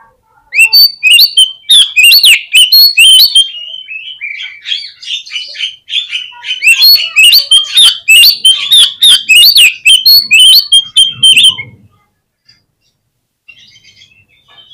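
Oriental magpie-robin (kacer) singing a loud, fast, varied song of sharp chirps and whistles, which stops about twelve seconds in.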